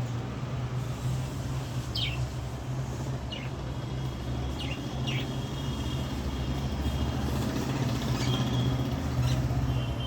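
Several short, quick downward-sweeping bird chirps, spread through the passage, over a steady low hum and rumble.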